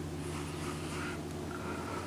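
Quiet indoor room tone: a steady low hum under faint hiss.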